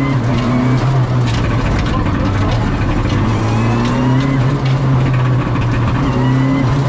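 Rally car engine running hard under acceleration, heard from inside the cockpit; its pitch climbs and drops back several times as it goes through the gears.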